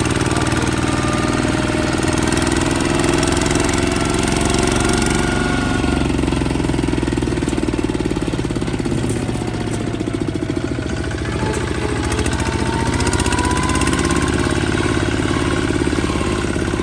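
Kubota ZT155 single-cylinder diesel engine running steadily, with a fast, even knocking beat.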